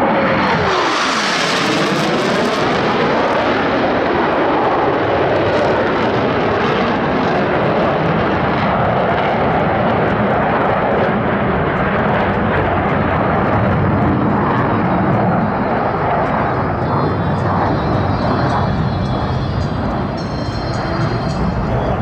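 Military jet aircraft passing low and fast, the engine pitch dropping sharply as they go by at the start. A loud, sustained jet roar follows, with a slowly sweeping, phasing quality.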